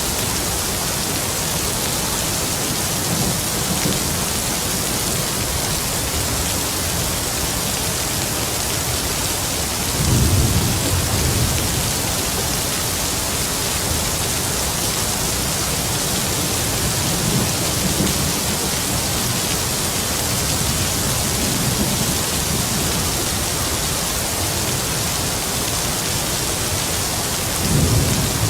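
Heavy rain falling as a steady hiss, with distant thunder rumbling low beneath it, most clearly about ten seconds in and again near the end.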